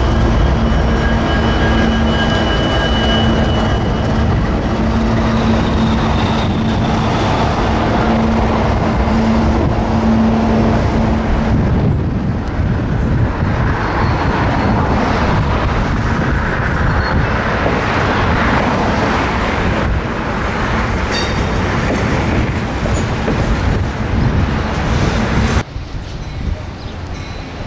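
Diesel freight locomotives passing close by, engines running with a steady low tone, followed by loaded covered hopper cars rolling past with a continuous rumble of steel wheels on rail. Near the end the sound drops abruptly to a quieter scene.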